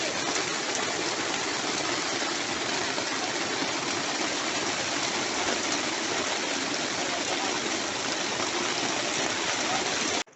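Steady, unbroken rush of water, an even hiss like heavy rain or gushing water, with no rhythm or distinct events.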